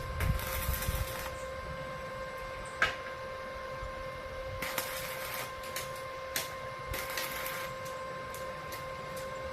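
Electric arc welding: a welding machine's steady whine, with bursts of crackling from the arc and a sharp tap about three seconds in.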